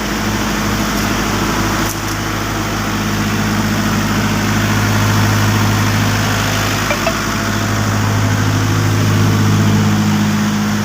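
Perkins 27 kVA diesel generator set running at a steady speed.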